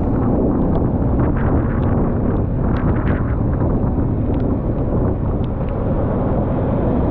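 Wind buffeting the microphone of a moving motorcycle, a dense steady low rumble, with a scattering of sharp ticks.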